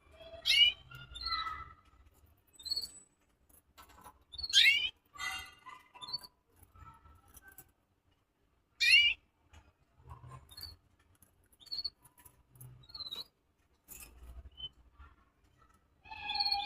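Small caged birds calling: three loud, sharp chirps that sweep down in pitch, spaced about four seconds apart, with softer short chirps and faint clicks and rustles between them.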